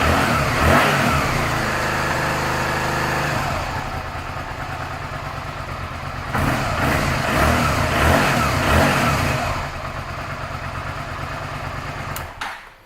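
2001 Suzuki SV650S's 645 cc V-twin engine idling, with throttle blips about a second in and a run of several between about six and nine seconds in, then switched off near the end.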